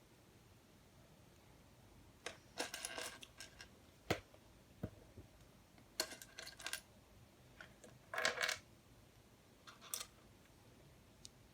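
Small hard plastic LEGO Technic pieces clattering and clicking as they are handled and fitted together. The sound comes in short rattling bursts with pauses between, plus a single dull knock.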